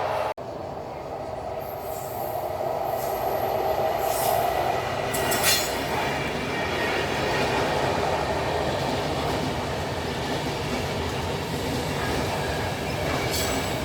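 Train running on the rails with a steady rumble, and high-pitched wheel squeals several seconds in and again near the end.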